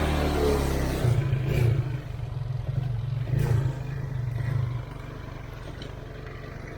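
A vehicle engine running under load, its revs rising and falling with some clatter, then settling to a steadier, quieter run about five seconds in.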